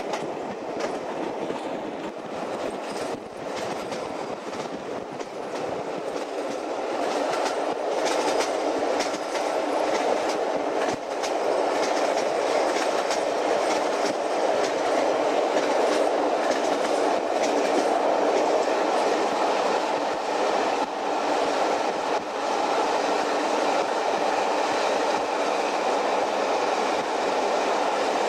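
A train running on the rails: a steady rolling rumble that grows louder about a third of the way in and then holds, with scattered clicks of wheels over rail joints.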